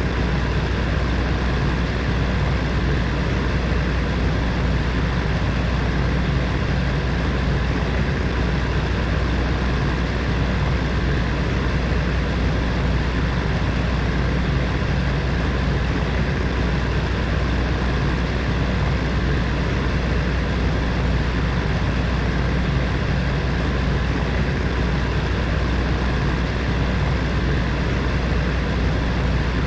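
Electric space heater's fan running steadily: an even whooshing rush of air with a low, constant hum.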